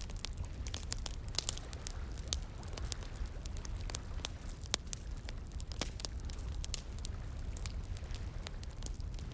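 Wood fire crackling, with frequent irregular sharp pops and snaps, over a steady low rush of flowing water.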